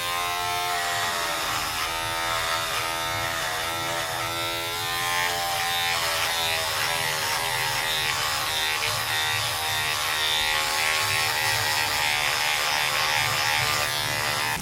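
Electric shaver buzzing steadily, its pitch wavering slightly up and down.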